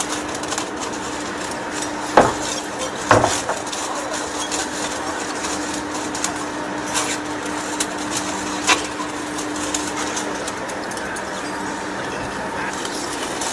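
Steady machine hum with a few sharp knocks: two loud ones about two and three seconds in, and lighter clicks later.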